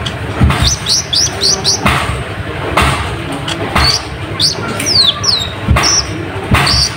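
Konin (kolibri ninja) sunbird calling busily: runs of quick, high, falling chirps, the loud, agitated calling used as a lure to set rival birds off. Dull thumps break in about once a second and are louder than the chirps.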